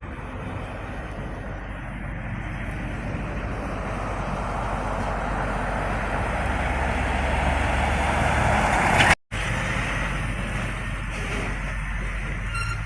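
Heavy rain and wind of a squall line, a steady rushing noise that builds for about nine seconds, breaks off for an instant, then carries on at a steady level.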